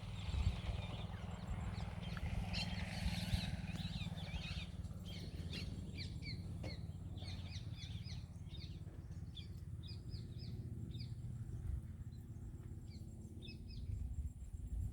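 Birds chirping in quick runs of short, high notes over a steady low rumble.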